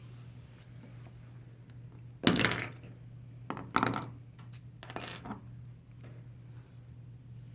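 Small metal parts clinking and clattering as a lock and metal tools are handled, in three short bursts about two, four and five seconds in.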